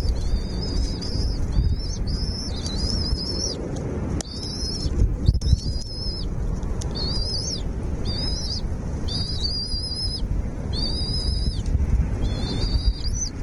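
A small bird repeating a high, wavering call about once a second, over a low steady rumble.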